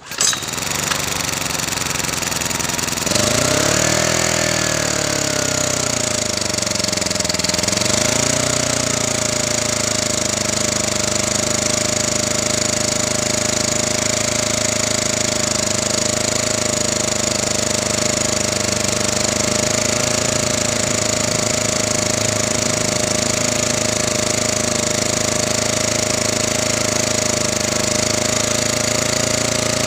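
Honda portable generator engine starting and running: about three seconds in its pitch rises, falls back and then settles into a steady run.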